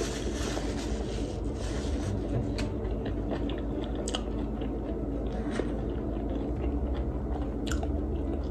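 A person chewing food close to the microphone, with a few short sharp mouth clicks, over a steady low room hum.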